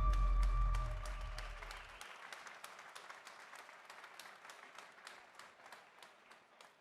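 The end of a music track with heavy bass dies away over the first two seconds. Under and after it, an audience claps, and the applause thins out until it is almost gone.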